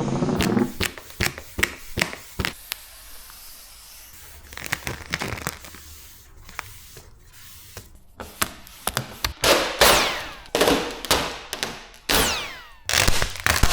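Matte vinyl wrap film crackling and snapping as it is handled and laid onto a car bonnet. Sharp clicks and pops come first, then a quieter stretch in the middle, then denser crackling with a few falling squeaks near the end.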